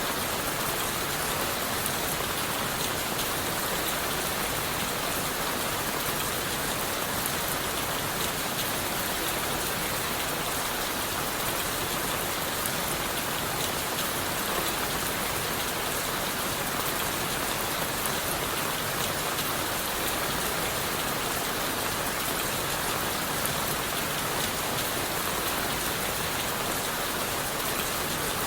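Steady rain falling on leaves, wood and the forest floor, heard from under a wooden shelter: an even hiss with many small drop taps that stays level throughout.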